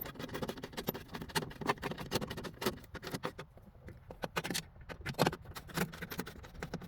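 Irregular small clicks, taps and light rattles of hands working small plastic pieces and connectors off the back of a part, one stroke after another in no steady rhythm.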